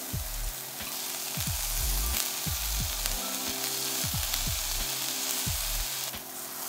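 King oyster mushroom slices sizzling as they sear in a little oil in a frying pan, with background music underneath.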